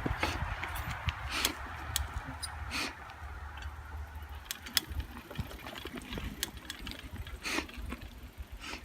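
Mountain bike ridden over a dirt trail: irregular sharp clicks and knocks of the bike jolting over bumps, over a steady low rumble.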